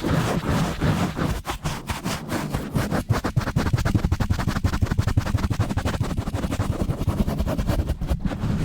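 Fast, rough rubbing and scratching directly on a microphone, several quick strokes a second over a heavy low rumble from the mic being handled and pumped.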